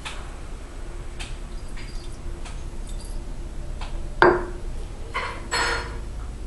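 Light clinks and knocks of a chick waterer and a vinegar bottle being handled, with one sharper knock about four seconds in, followed by a brief rustling scrape.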